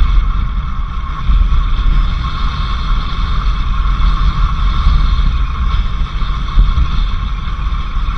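Vehicle driving along a dirt road: a steady low rumble of engine and road noise.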